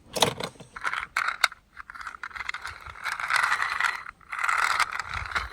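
Toy cars being handled: a run of sharp clicks and rattles, then longer scraping stretches from about two and a half seconds in.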